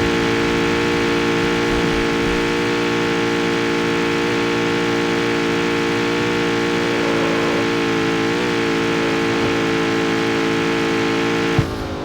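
Jaguar F-Type's supercharged 5.0-litre V8 held at steady revs, then let off near the end with a sharp crack as the revs fall.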